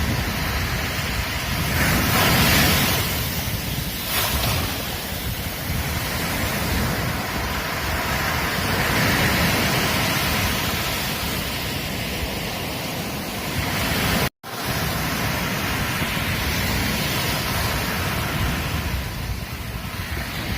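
Ocean surf washing onto a beach, a steady roar of breaking waves that swells and eases every few seconds, with wind rumbling on the microphone. The sound cuts out for a split second about fourteen seconds in.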